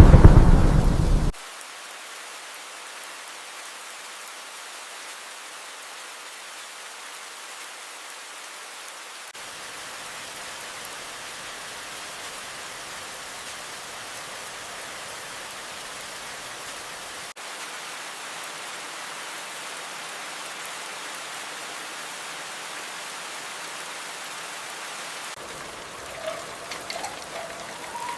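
Steady rain falling, opening with the tail of a loud, deep thunder crash that cuts off abruptly about a second in. Faint short chirps come in near the end.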